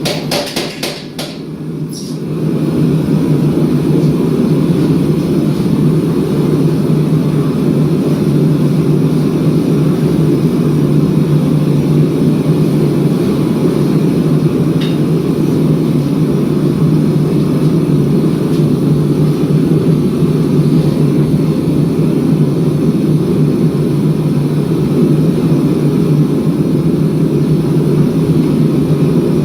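A few sharp hammer knocks on steel in the first two seconds. Then a gas forge's burner runs with a steady loud roar, unchanging for the rest of the stretch.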